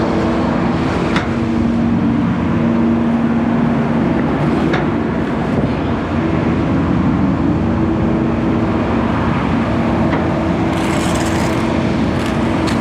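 Garbage truck running with its hydraulic compactor working, a steady loud mechanical hum over a low rumble, with a few sharp snaps and a short hiss near the end.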